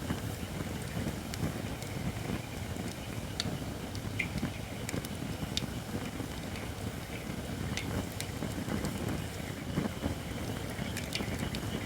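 Japanese white oak logs burning in a campfire: a low steady rumble of flames with scattered sharp crackles and pops. A faint hiss comes from the wood, which is not yet dry enough.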